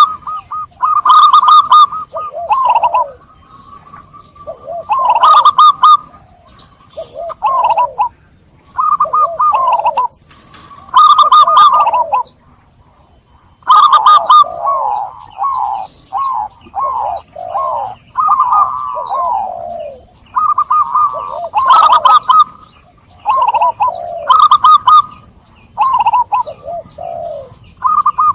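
Zebra dove (perkutut) cooing: repeated phrases of quick, rippling notes, each lasting a second or two, with short pauses between them.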